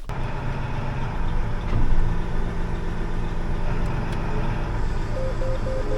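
Truck engine running steadily, with a beeping chime repeating about three times a second near the end.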